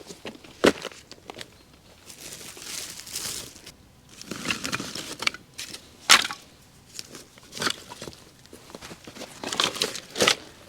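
Irregular rustling and crinkling with several sharp knocks, the loudest about half a second in, about six seconds in and near the end.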